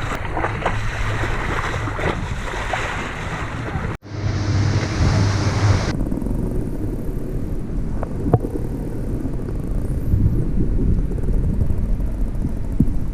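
Boat under way at sea: wind buffeting the microphone and water rushing past, over a low engine rumble. A sudden cut about four seconds in.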